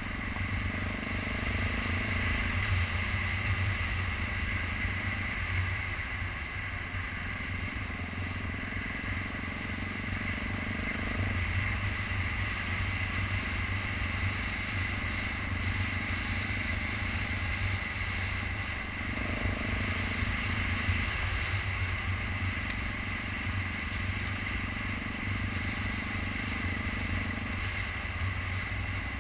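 2012 BMW G650GS Sertao's single-cylinder engine running while riding, its pitch stepping up and down several times, over a steady low rumble.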